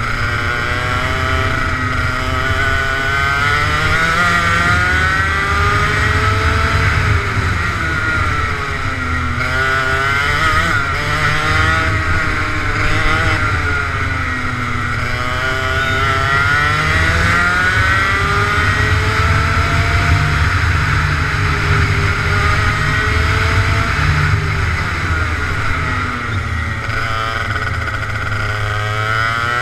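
Kart engine driven around a track, its pitch repeatedly climbing under acceleration and dropping back when the throttle is lifted, every few seconds.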